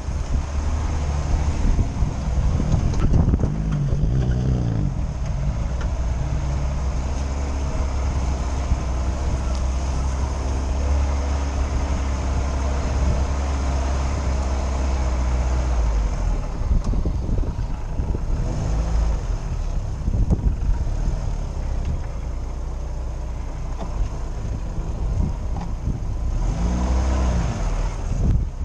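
Lada Niva's engine running as it drives off-road, heard from inside the cabin, with the revs rising and falling a few seconds in and again near the end.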